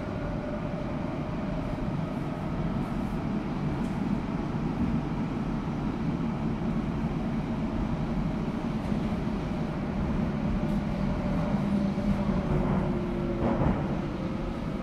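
Bombardier Class 378 electric train heard from inside, running along the track: a steady rumble of wheels on rail with a faint, steady traction-motor whine over it. A brief clatter comes near the end.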